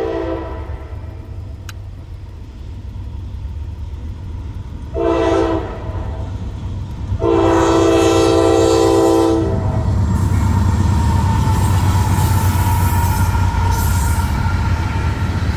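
Norfolk Southern freight locomotive's multi-note air horn: the end of one blast at the start, a short blast about five seconds in, and a longer blast about seven seconds in. The diesel locomotives and cars then pass close by with a loud, steady rumble of engines and wheels on rail.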